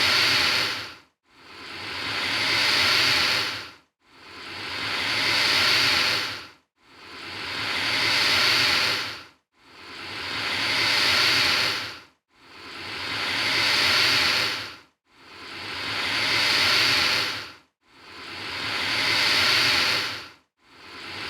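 Alligator hissing: a long breathy hiss about every three seconds, each swelling to full strength and then stopping abruptly, with a brief silence between, the same hiss repeated over and over.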